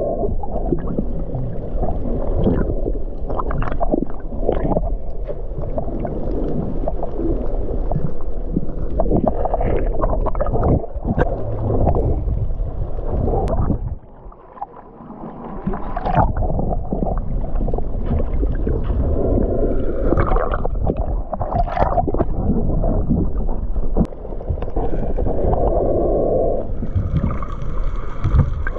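Water sloshing and gurgling against a camera microphone held at or under the surface while snorkeling, loud and irregular, with a brief drop in level about halfway through.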